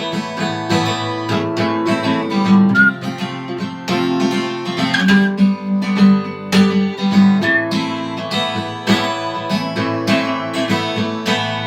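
Acoustic guitar strummed in a steady rhythm, chords ringing between the strokes: an instrumental passage with no singing.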